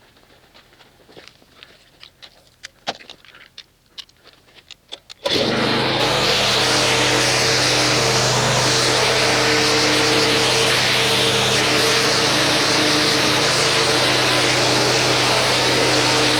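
Faint scattered ticks and drips, then a motor-driven machine starts suddenly about five seconds in and runs steadily with a hum and a strong hiss.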